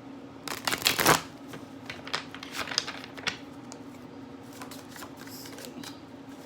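A deck of tarot cards being shuffled by hand: a quick burst of rapid card flicks about half a second in, followed by scattered single card snaps and taps that thin out over the next few seconds.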